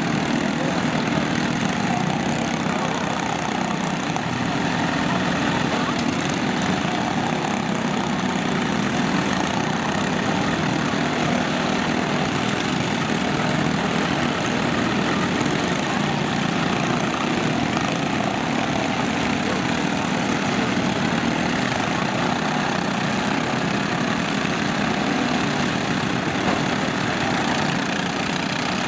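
Lawn tractor engines running together in a steady drone.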